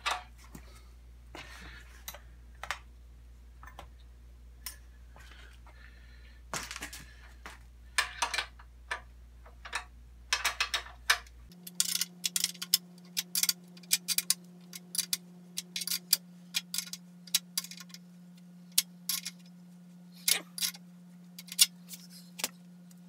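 Clicks, taps and light metallic rattles of hand tools and hardware as parts of a metal miter saw stand are tightened down, over a faint steady hum. About halfway through, the clicking becomes quicker and denser.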